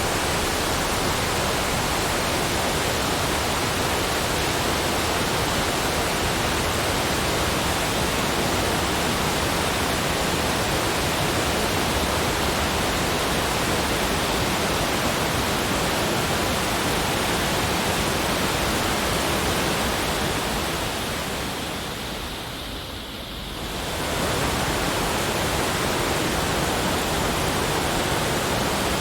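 Steady, even rushing noise of the kind used as a nature-sound backdrop, with no distinct events, that dips briefly in level about twenty-two seconds in.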